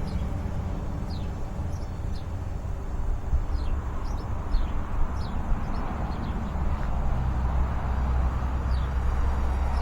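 Strong wind buffeting the microphone in a steady low rumble, with small birds chirping in short, high, falling notes scattered throughout.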